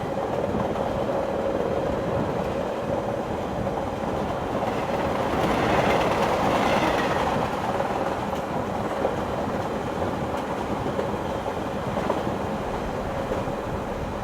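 Train running along the rails, a steady rumble with a faint humming tone, growing louder and brighter for a couple of seconds about halfway through.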